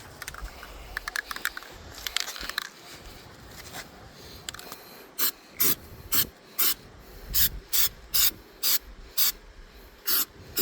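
Work on a rusty refrigerator part: a brief clattering rattle, then from about halfway a run of short, even hissing strokes, about two a second.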